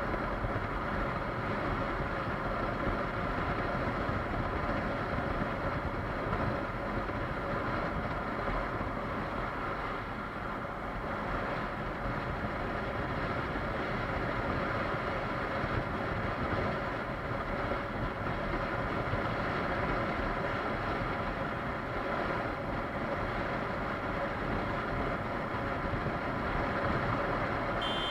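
Kawasaki KLR 650 motorcycle riding at a steady speed: the single-cylinder engine running with wind and road noise.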